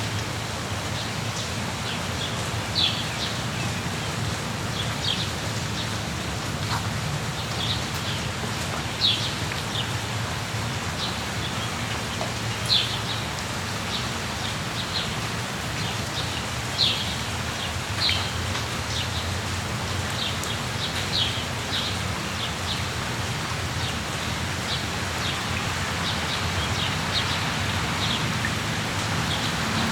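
Steady rain with small birds chirping: short high notes scattered through, a few louder ones standing out above the rain.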